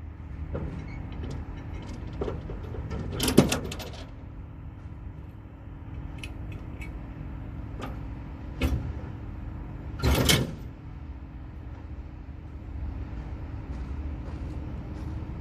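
A semi truck's diesel engine idles steadily, broken by loud metallic clattering and knocking: a rattling clatter about three seconds in, a sharp knock near nine seconds, and another clatter a second later.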